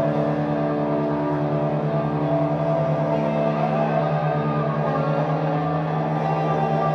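Live drone noise music: dense layered tones held steady, over a low tone that pulses quickly without a break.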